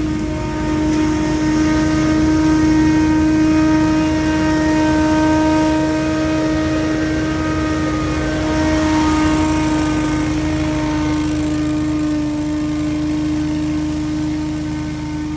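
Scag Windstorm stand-on leaf blower running steadily: engine rumble with a steady fan tone on top, swelling slightly in loudness now and then.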